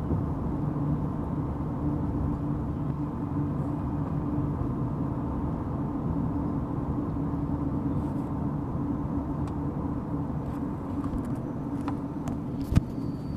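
Steady road and engine drone inside a moving car, with a sharp click near the end.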